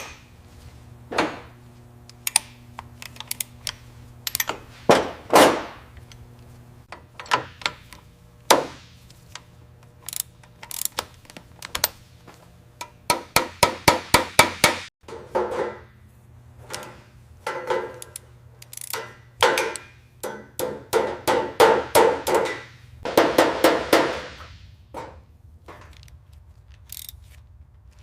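Hand tools clicking and knocking in irregular strokes and quick rapid runs, over a faint steady hum.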